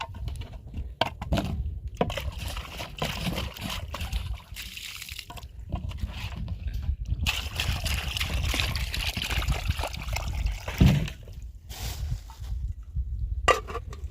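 Water sloshing and trickling in uneven spurts, with a single loud knock about eleven seconds in.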